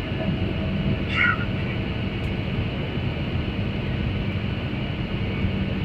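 Airliner cabin noise on approach: the steady drone of the engines and airflow with a constant low hum. About a second in, a brief high-pitched squeak or chirp sounds over it.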